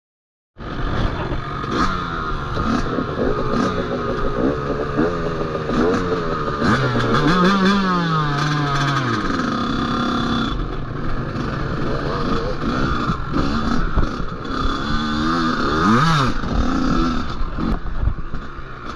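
Dirt bike engine running and revving, its pitch rising and falling repeatedly. The sound starts suddenly about half a second in.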